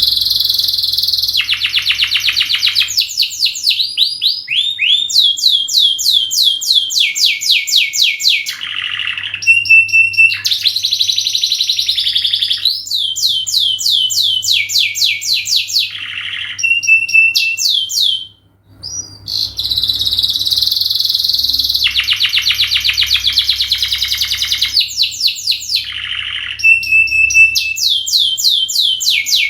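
Domestic canary singing a long, continuous song of rapid trills and fast repeated rising and falling notes, with a brief pause about two-thirds of the way through.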